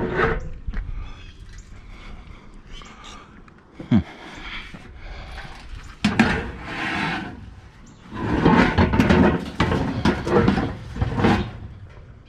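Pieces of scrap metal being shifted and dragged into place: a sharp knock about four seconds in, then stretches of scraping and clattering.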